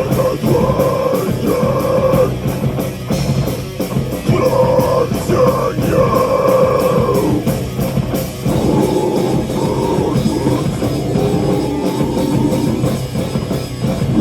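Live heavy metal band playing an instrumental passage: distorted electric guitars holding sustained chords and melodic lines over a drum kit with steady cymbal hits.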